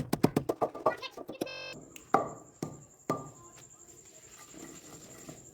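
Mortar and pestle pounding whole dried red chillies with salt: rapid, even strikes about five a second, then after a short break three slower knocks that ring briefly.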